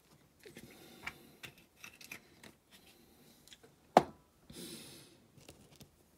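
Small clicks, taps and scrapes of parts of a die-cast toy van being handled and fitted by hand, with one sharp click about four seconds in, followed by a brief rustle.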